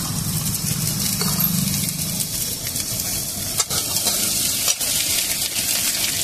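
Chopped okra sizzling in hot oil with fried onions in a wok, stirred with a metal spatula that scrapes and knocks against the pan several times in the second half.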